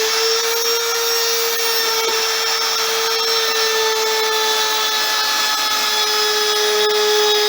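Electric router running at full speed with a steady whine, just after switching on, set to plunge-cut a guitar sound hole.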